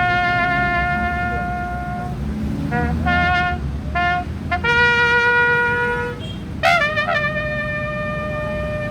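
A solo brass instrument playing a slow call: a long held note, three short notes, a lower held note, then about two-thirds of the way in a note that scoops up in pitch and is held to the end.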